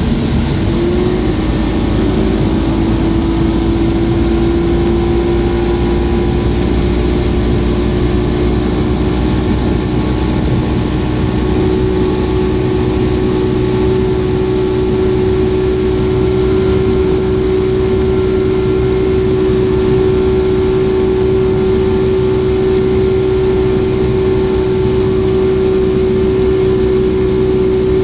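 Suzuki DT 225 two-stroke V6 outboard motor running at steady high revs with the boat under way. Its pitch rises slightly about a second in, then holds, over rushing wind and water noise.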